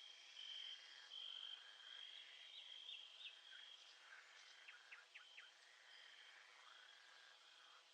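Faint nature soundscape: an insect, cricket-like, trills steadily at a high pitch in on-and-off stretches, with a few quick bird chirps a few seconds in and again around the middle.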